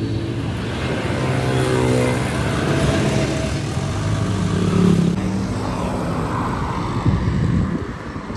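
Passing road traffic: motor vehicle engines running, with one vehicle going by and its pitch falling about one to three seconds in.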